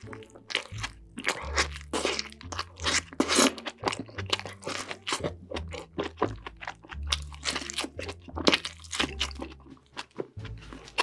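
Close-miked biting and chewing of a burger coated in cheese sauce: a fast, uneven run of wet crunches and mouth smacks.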